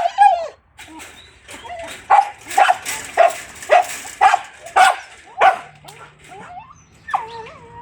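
Pet dogs barking and whining excitedly, as in greeting a family member who has come home: a run of about seven short barks, roughly two a second, with drawn-out whines near the start and again near the end.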